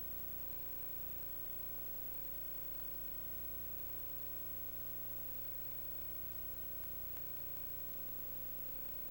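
Steady electrical hum and hiss with a constant high tone, unchanging throughout and with no other events.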